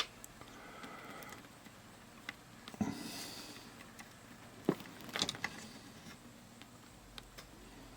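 A few faint, sharp clicks and taps of ceramic tweezers and small tools handled on a circuit board during fine soldering work, with a short soft sniff just after three seconds in.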